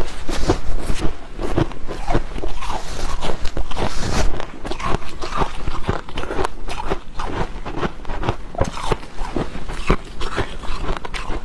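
A person chewing a mouthful of dry freezer frost close to a clip-on microphone: a steady run of crunches, several a second.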